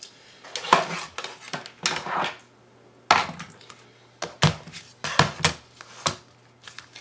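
Cardstock being folded and handled: a series of crisp paper rustles and light knocks against the work surface, coming irregularly.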